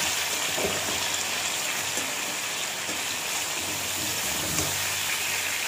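Whole small potatoes frying in hot oil in a metal kadai: a steady sizzle, with a spatula stirring them and knocking against the pan a couple of times.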